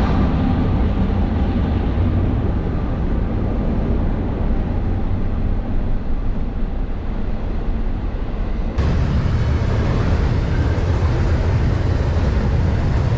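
Loud, steady low rumble, like wind or road noise, that shifts abruptly about nine seconds in and cuts off at the end.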